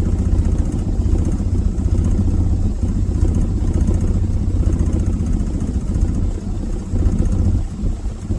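Ford F350 dump truck's carbureted engine idling steadily, its level dipping briefly a couple of times near the end.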